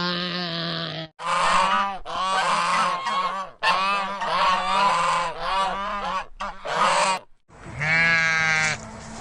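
Farmyard waterfowl calling loudly and over and over, several calls overlapping. The calls come in a few bursts broken by short gaps.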